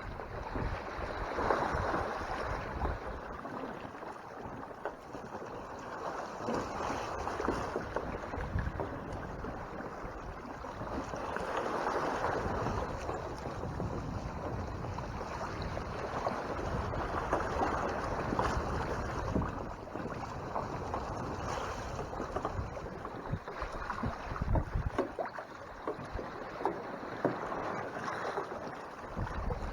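Water rushing along the hull of a Hobie Mirage Tandem Island sailing kayak under sail, swelling and fading every few seconds as it rides the swells, with wind gusting on the microphone.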